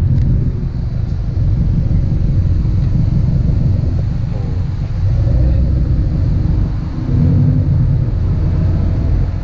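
Steady low rumble of a car engine running at low speed, getting a little louder about seven seconds in.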